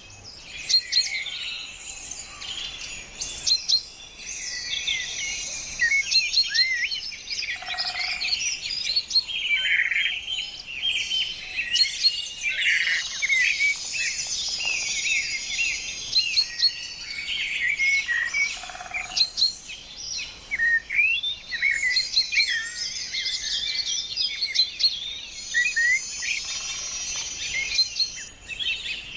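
Many birds chirping and calling at once: a dense, unbroken chorus of short high chirps and whistles overlapping one another.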